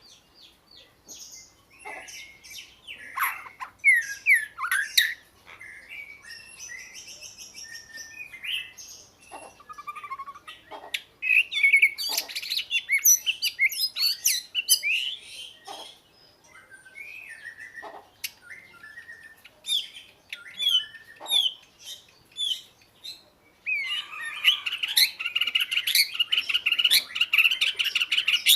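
Oriental magpie-robin singing: a varied string of clear whistles, sweeping notes and chirps, which breaks into fast, continuous warbling near the end.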